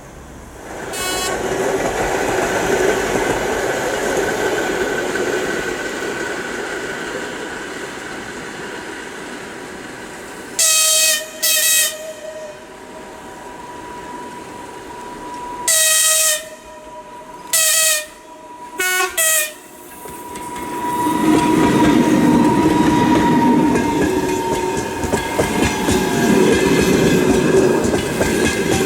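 EP2K electric locomotive with a passenger train approaching and sounding its horn in short high blasts: two near the middle, then four more a few seconds later. From about two-thirds of the way in, the train passes close with a loud rumble and wheel clatter over the rail joints.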